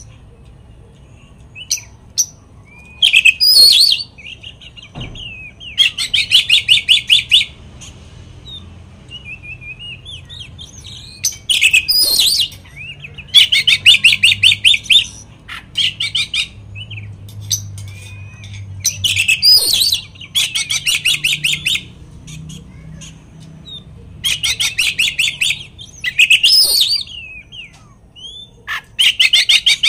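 Oriental magpie-robin (kacer) singing loudly in bouts of rapid, rattling repeated notes, each bout a second or two long, broken by short pauses and a few sweeping whistles. This is a lure song meant to provoke other magpie-robins.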